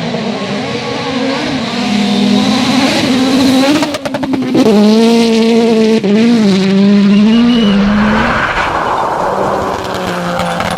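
Rally car engines at full throttle, the pitch climbing and dropping through gear changes. About four seconds in comes a rapid string of sharp cracks, then a loud engine holds high revs with short dips for shifts before giving way to a noisy hiss near the end.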